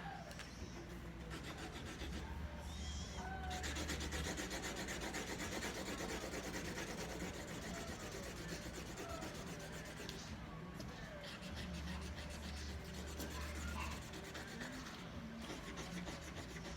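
Felt-tip markers colouring on paper: a dry, scratchy rubbing of quick back-and-forth strokes, which gets denser and louder about three and a half seconds in.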